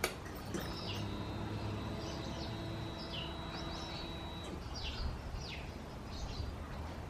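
Small birds chirping, a scattered string of short falling chirps, over a faint steady hum.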